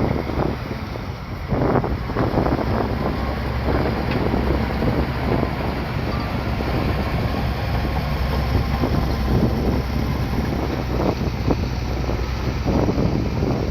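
Bulldozer's diesel engine running steadily, with wind buffeting the microphone.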